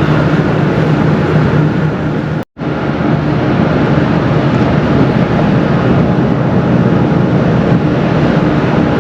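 Wind buffeting the microphone on an open ferry deck, over a steady low drone from the ferry's engines. The sound cuts out completely for a split second about two and a half seconds in.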